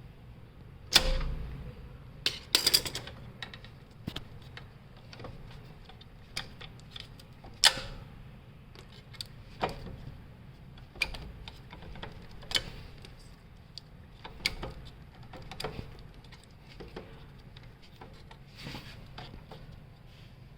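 Irregular clicks, taps and clinks of hand tools and small metal parts being handled during repair work, about one every second or so, the sharpest about a second in, over a faint steady low hum.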